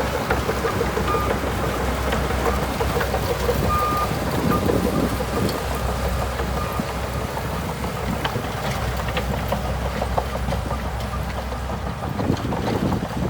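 Bulldozer's diesel engine running steadily under work, with occasional metallic clanks and a few short high beeps in the first half.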